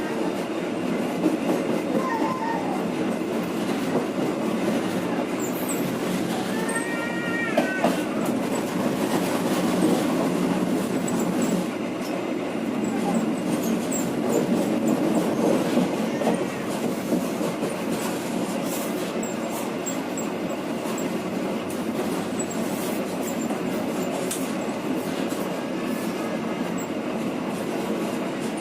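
Passenger train running along the track, heard from on board: a steady rumble of wheels on rail with the clicking of rail joints. There is a brief high squeal about seven seconds in.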